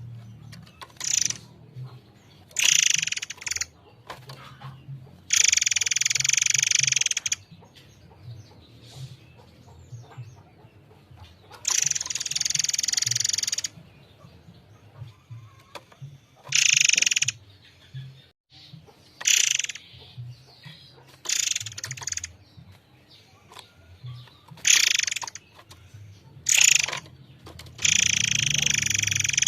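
A 'murai air mancur' songbird singing in separate clear, high phrases, some short and some about two seconds long, with pauses between them, over a faint low hum.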